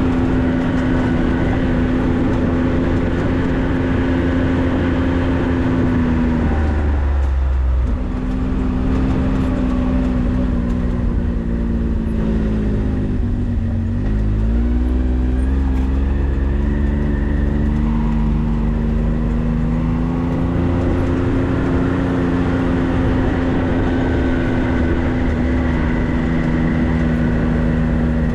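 A vehicle's engine running steadily while driving. Its pitch drops about a quarter of the way in and again about halfway through, then climbs back up near the end.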